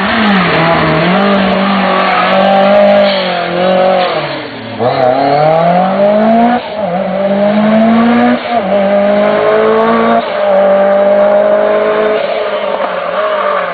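Lancia Delta S4 Group B rally car's twin-charged (supercharged and turbocharged) 1.8-litre four-cylinder engine driven hard. It slows about four and a half seconds in, then accelerates up through the gears, its pitch dropping sharply at each shift, three times.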